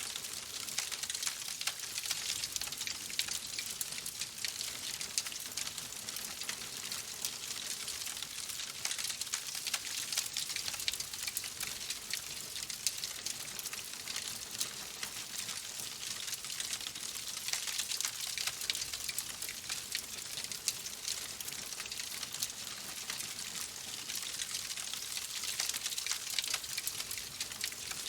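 Wood fire crackling steadily in a fireplace: a constant high hiss dotted with many small pops and crackles.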